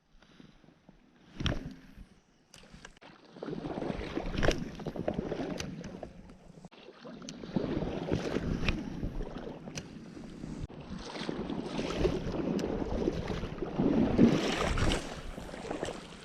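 Water sloshing and splashing in irregular surges, as of wading through a river, with scattered sharp clicks and knocks.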